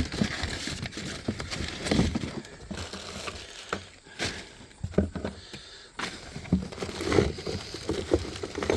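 Rummaging through a box of chain parts: irregular clinks and knocks of metal parts handled, with rustling.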